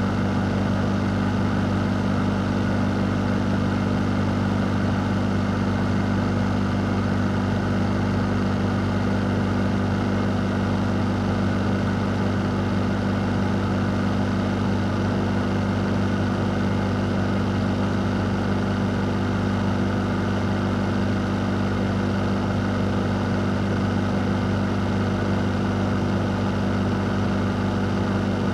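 Fan running steadily: a constant rush of air over a low, even hum, with no change in speed.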